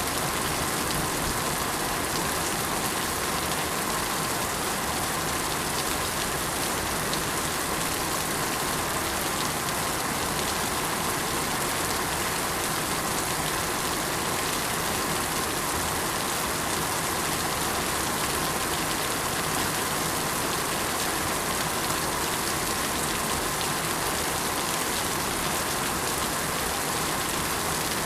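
Steady rain falling, an even hiss of drops that keeps on without let-up.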